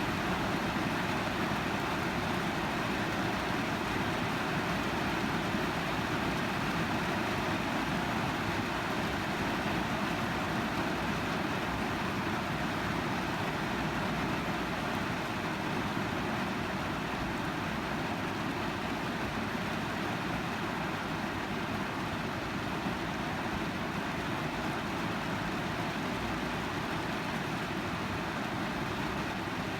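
Steady rain falling on a car's roof and windows, heard from inside the cabin.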